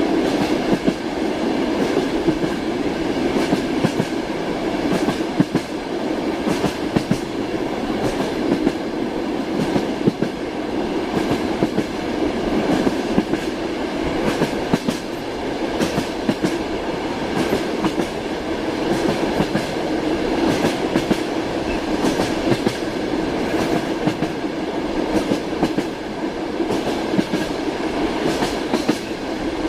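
Train wheels clacking over rail joints as the train runs along, a steady rumble with frequent short clicks and knocks.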